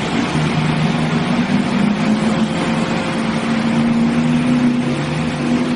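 Vehicle engine running steadily, with a steady low hum over a broad noisy rumble.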